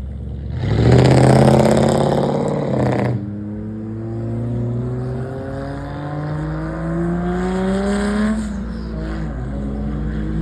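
A car engine revved hard for a couple of seconds, then an engine note rising steadily as a car accelerates away. The note drops briefly about eight and a half seconds in, then climbs again.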